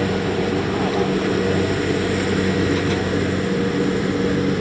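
Kubota DC70X rice combine harvester running steadily, its diesel engine holding a constant drone.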